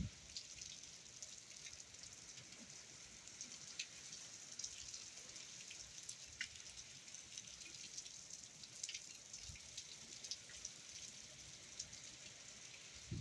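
Steady, fairly quiet rain from a hurricane, falling as a soft hiss with many sharp ticks of single drops striking nearby surfaces.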